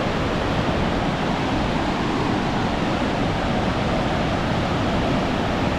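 Steady rush of the Rhine Falls' water, an even noise with no breaks.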